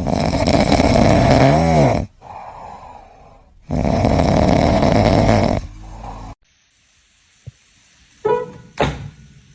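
A pet snoring loudly, two long rasping snores of about two seconds each. After a sudden cut, two short pitched cries come near the end.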